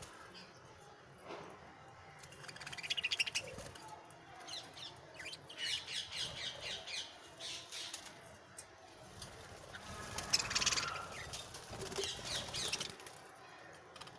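Budgerigars chirping and chattering in repeated high bursts, loudest about three seconds in and again around ten to eleven seconds.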